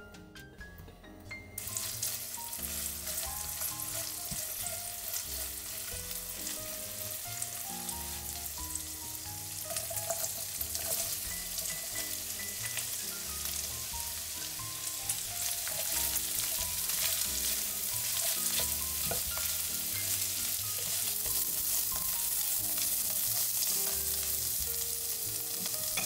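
Food sizzling as it fries in a hot pan. The dense sizzle starts suddenly about a second and a half in and gets a little louder in the second half, with background music underneath.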